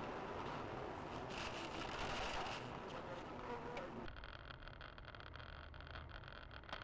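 Steady buzzing road and engine noise from a moving vehicle. About four seconds in it cuts abruptly to a quieter recording with a thin steady whine and scattered clicks.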